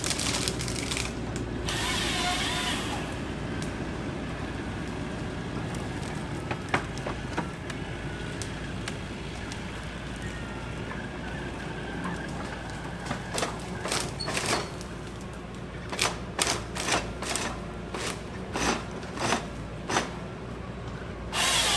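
Steady low machine rumble. In the second half comes a run of sharp clicks and knocks, roughly two a second.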